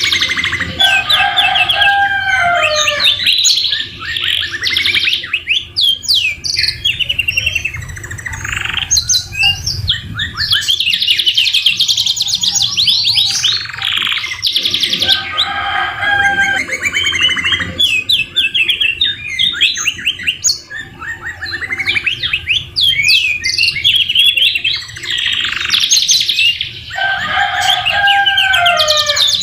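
Canary singing a long, continuous song of rapid trills and chirps, filled with phrases copied from the white-rumped shama (murai batu). A lower, falling whistled phrase comes back three times.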